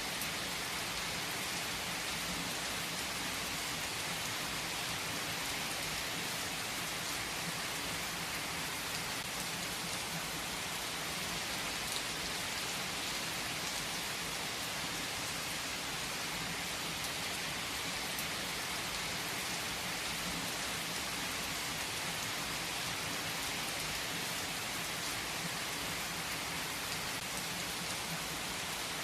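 Steady rain falling: an even, unbroken hiss with no clear thunder.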